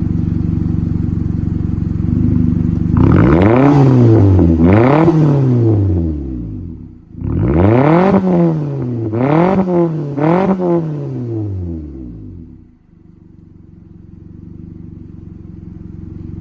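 Mitsubishi Lancer four-cylinder engine through a muffler-deleted exhaust, idling and then revved in five quick blips, two and then three, each rising and falling in pitch, before dropping back to idle.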